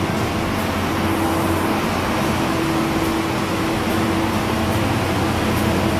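Steady machine noise: an even rushing sound over a constant low hum, with a faint steady whine that comes up about a second in.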